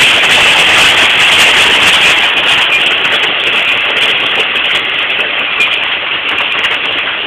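Heavy rain pelting down, a dense steady hiss recorded through a phone's microphone, with many sharp ticks of hail strikes from about two seconds in.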